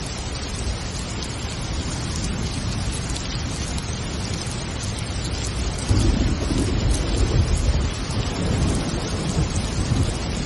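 Steady heavy rain hissing. About six seconds in, a low rumble of thunder rolls in and carries on under the rain.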